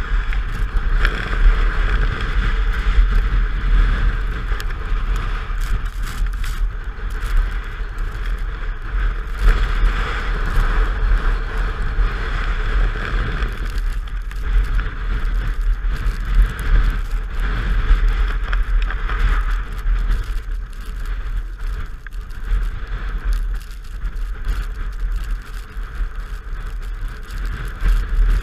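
Wind rushing over the microphone of a Honda XR250 Tornado motorcycle on the move, a steady low buffeting rumble with the bike's engine and road noise blended underneath.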